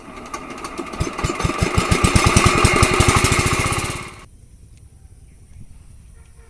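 Small diesel engine being started: its firing thumps come faster and faster and get louder, then the sound stops abruptly about four seconds in.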